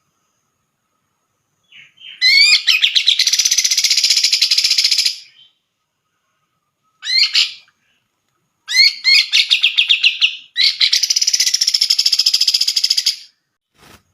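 Grey-cheeked bulbul (cucak jenggot) singing loud, fast chattering phrases of rapidly repeated notes, in four bursts with short pauses between, starting about two seconds in.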